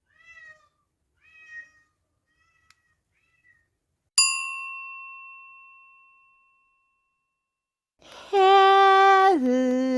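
A cat meowing four short times, then a single bell ding that rings out slowly. About two seconds before the end, a loud long pitched vocal note comes in, steps down in pitch and begins to waver.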